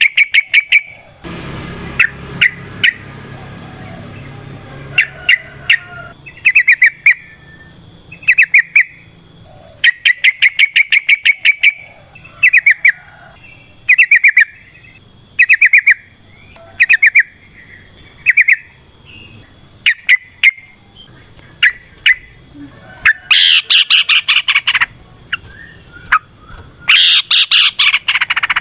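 Yellow-vented bulbuls (trucukan) calling in quick chattering phrases of rapid notes, repeated every second or two. Near the end come louder, harsher calls.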